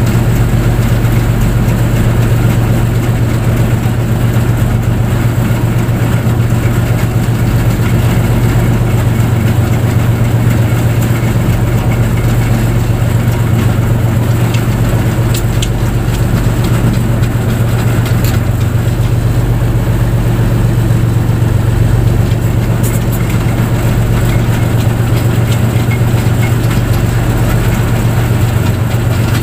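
Fishing boat's engine running steadily: a loud, constant low drone that does not change in pitch.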